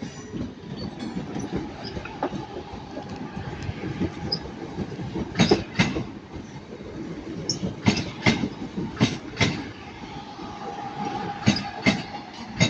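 Class 323 electric multiple unit rolling slowly through the station, its wheels clicking over rail joints in quick pairs several times, over a steady rumble and a faint whine.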